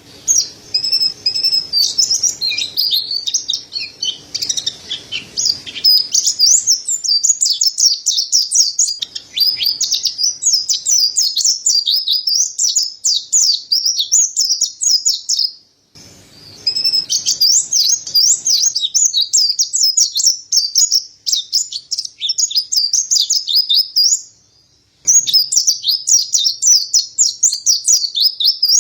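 Mountain white-eye (pleci dada putih, Zosterops montanus) singing a fast, high twittering song in long unbroken runs. The song stops briefly about 16 seconds in and again near 25 seconds, then resumes.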